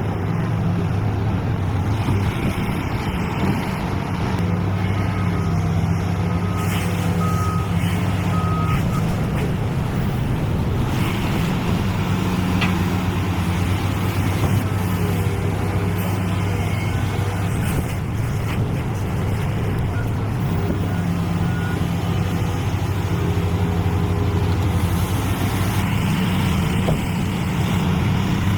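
Heavy construction machine's diesel engine running steadily under load, a deep continuous drone, with occasional short beeps like a reversing alarm.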